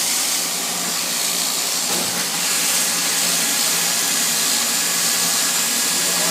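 Steady rushing hiss of wind on the microphone of a moving Kawasaki KLR650 motorcycle, with the engine's faint steady hum underneath.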